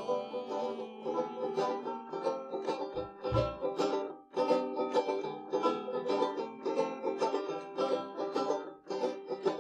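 Live acoustic music: a plucked string instrument picking a country-folk instrumental break between verses, with no singing.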